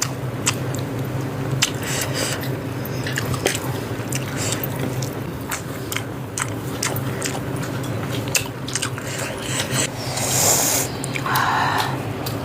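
Someone biting and chewing pieces of cooked chicken, with scattered small crunches and clicks.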